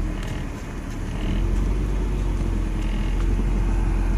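Car's engine and road rumble heard from inside the cabin as it moves along, steady and low, getting slightly louder about a second in.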